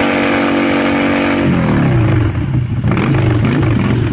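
Motorcycle engine held at steady revs, then dropping about a second and a half in to an uneven, lumpy idle.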